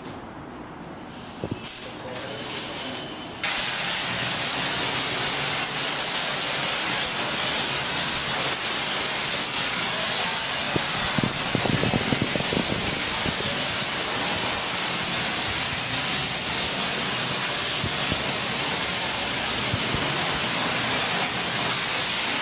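Water spray washing a bike, starting abruptly about three seconds in and then running as a steady loud hiss, its tone shifting briefly midway as the jet hits a different part.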